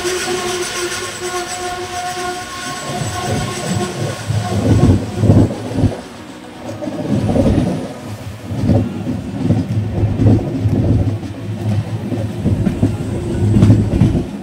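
Passenger train running, heard from an open coach doorway: the rumble and clatter of the coaches' wheels on the rails, swelling and fading about once a second, with wind on the microphone. A steady ringing tone sounds over the first two seconds or so, then fades.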